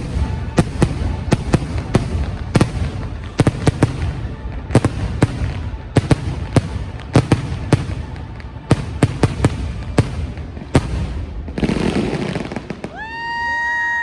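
Fireworks display: a rapid, irregular series of sharp firework bangs and reports, sometimes several a second, with a denser crackling burst about twelve seconds in.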